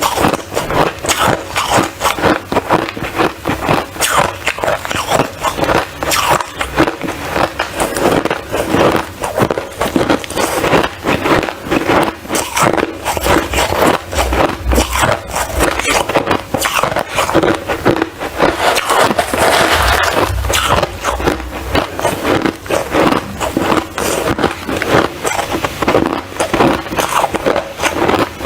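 Ice crunching: a continuous run of rapid, crisp cracks and crackles.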